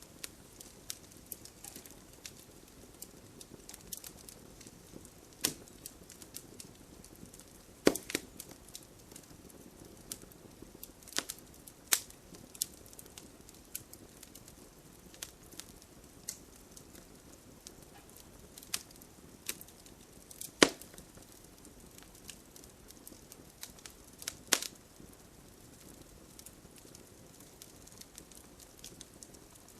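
Wood campfire crackling: irregular sharp snaps and pops over a faint low hiss, with a handful of louder pops standing out.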